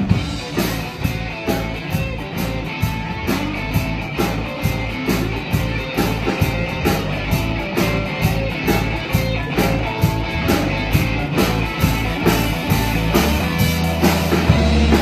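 Live rock band playing an instrumental break with no singing: guitar over bass and drums, keeping a steady beat. A deeper bass note comes in near the end.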